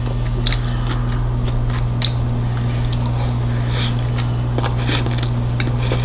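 Close-up mouth sounds of a person biting and chewing a soft salmon taco: irregular wet clicks and smacks. A steady low hum runs underneath.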